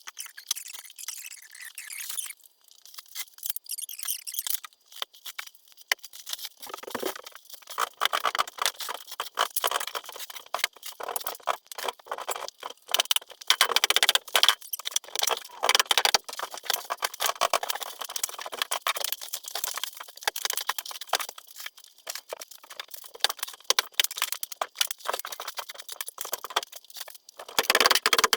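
Insulation being pulled down from a basement ceiling: an irregular rustling and crackling that grows busier about six seconds in.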